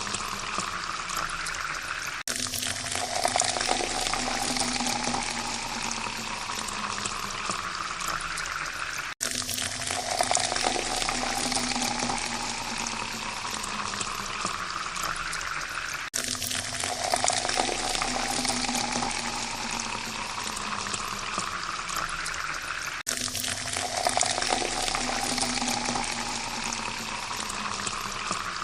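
Water pouring steadily into a glass, its pitch rising as the glass fills. The pour cuts off and starts again about every seven seconds, four times, as a repeating loop.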